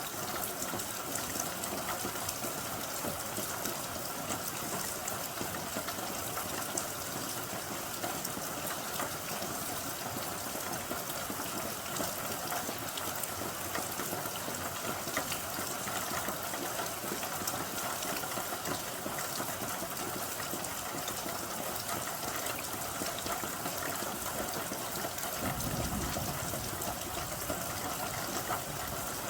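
Rain falling steadily, an even hiss dotted with fine drop ticks. A brief low rumble comes in near the end.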